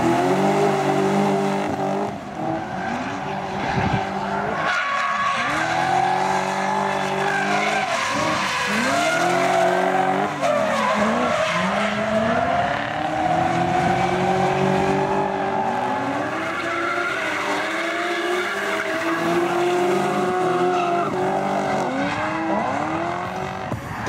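V8 engine of a V8-swapped BMW E30 revving hard during drift powerslides, its note climbing and dropping every couple of seconds as the throttle is worked, with tyres skidding and squealing throughout.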